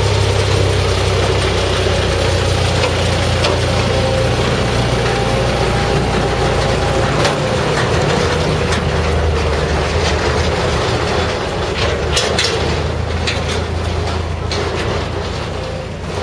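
Small Tanimura-type forest-railway locomotive's engine running steadily with a low, even note. Sharp clicks and knocks come and go through the second half.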